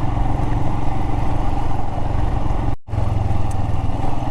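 Royal Enfield Himalayan's single-cylinder engine running steadily under way, heard from the bike with tyre and wind noise over it. The sound cuts out for a split second nearly three seconds in.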